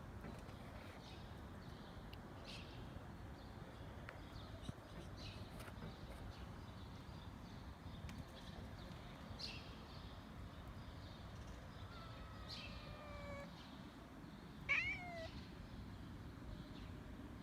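Kitten meowing excitedly: a long call falling in pitch about twelve seconds in, then a louder, shorter meow a second or so later. Faint short high chirps come and go throughout.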